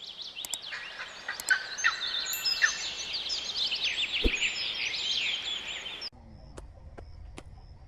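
Many birds calling over one another in a dense chatter of short, quickly falling chirps, cutting off abruptly about six seconds in.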